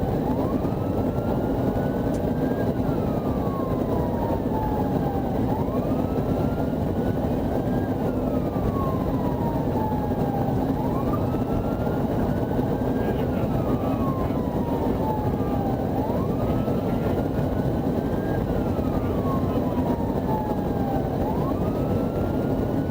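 Police car siren on a slow wail, its pitch rising and falling about every five seconds, over steady engine and road noise.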